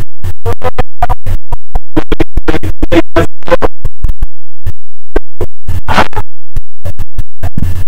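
Glitching, heavily clipped audio that cuts in and out many times a second, chopping a voice into short stuttering fragments with dead gaps between them.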